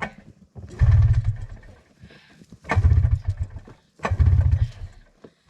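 Snowmobile engine cranked three times in short bursts, turning over without catching: a stalled sled that won't start.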